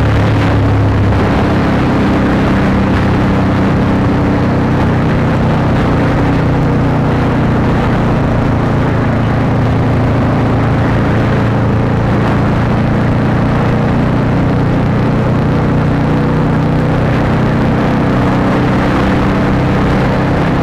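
Honda CBR150R's single-cylinder engine through an aftermarket Akrapovic exhaust, running at a steady pace with no big revs.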